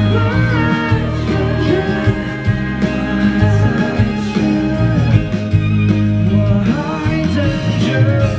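Live pop band playing a song, a guitar melody over a steady bass line, with no lyrics sung.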